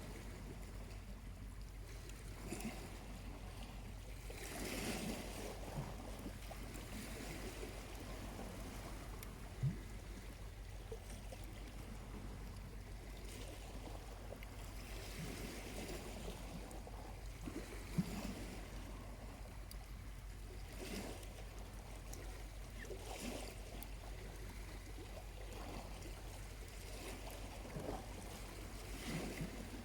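Small waves washing gently onto the beach in soft swells every several seconds over a steady low rumble, with two sharp pops from the charcoal fire.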